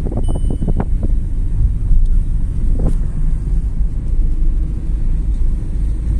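A car engine runs under load with a heavy, steady low rumble while the car backs up; the driver says the car has no power. A single short electronic beep sounds just after the start.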